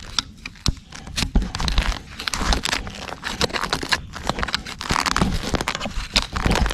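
Hand digging into forest ground: a shovel blade scraping and lifting dirt, with irregular crunches and scrapes.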